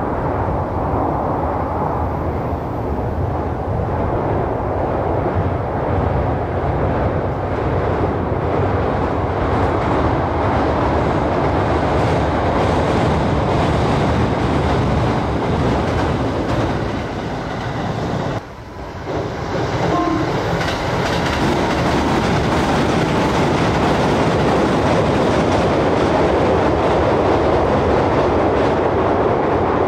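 A train running on the rails, a loud, steady rumble with a brief sudden dip about 18 seconds in.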